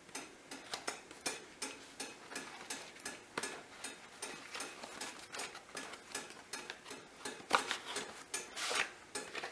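Small metal protractor being handled and adjusted: irregular light clicks and clinks, with a couple of louder clacks near the end.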